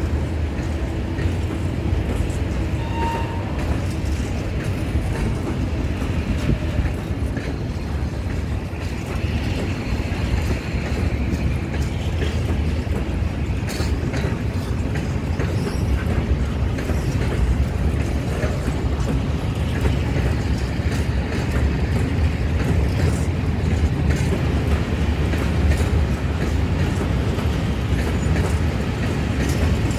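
Loaded freight wagons (Fas open wagons) rolling past, a steady low rumble with the clack of wheels over rail joints.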